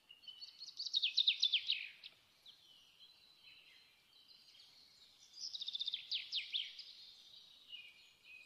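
Small songbird singing: two runs of rapid downward-sweeping trills, each about a second and a half, with softer high chirps between them.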